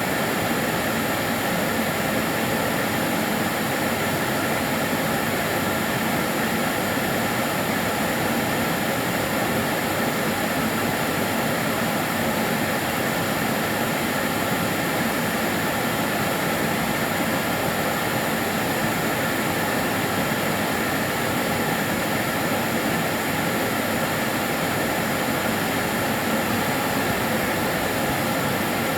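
Karcher DS 6 Premium water-filter vacuum cleaner running steadily: an even rushing noise with a faint thin high whine over it.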